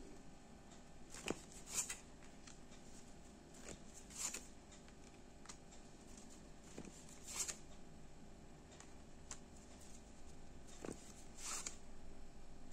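A deck of fortune-telling cards being shuffled and handled by hand: faint soft swishes and taps, a handful of brief rustles spread a few seconds apart.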